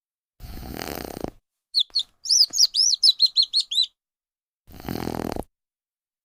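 Baby chick peeping: a quick run of about a dozen short high chirps lasting about two seconds, between two brief noisy bursts, one near the start and one near the end.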